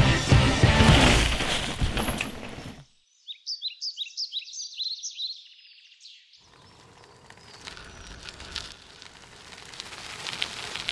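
Music fades out, and then a small bird sings a run of quick, high, falling chirps for about three seconds. Faint outdoor background with a few light clicks follows.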